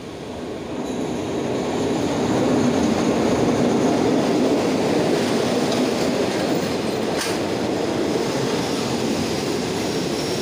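Thai passenger train carriages rolling past along the platform. The wheel and rail noise swells over the first two seconds and then holds steady, with one sharp clack about seven seconds in.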